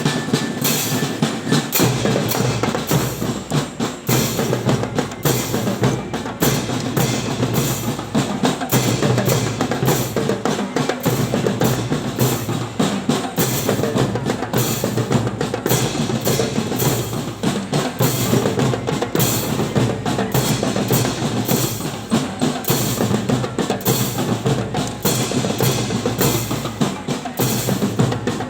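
Drums played in a fast, dense, unbroken rhythm, with bass drum and snare strokes.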